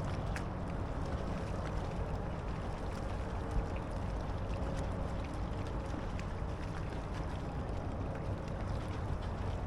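Small water slaps and lapping against a fishing kayak's hull, under a steady low rumble of wind on the microphone.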